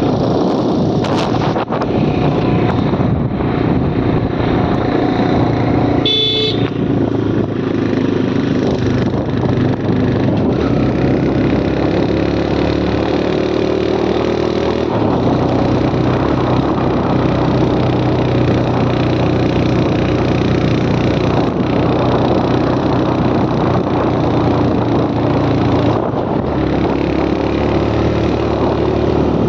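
Motorcycle engine running steadily while riding, over a steady rush of noise. A vehicle horn sounds briefly about six seconds in.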